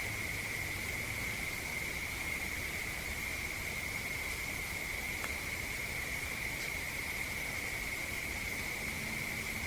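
Insect chorus: one unbroken, steady high-pitched trill over a background of recorder hiss, with a couple of faint ticks in the middle.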